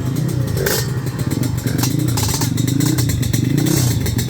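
Drag-race motorcycle engines revving at the start line, the pitch rising and falling again and again as the throttle is blipped and held before the launch.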